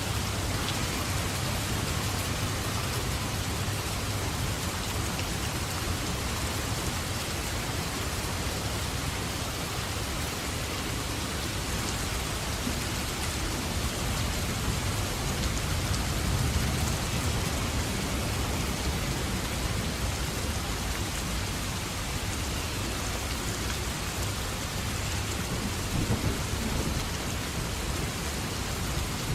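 Heavy, steady rain falling in a thunderstorm, with low rolling thunder rumbling underneath.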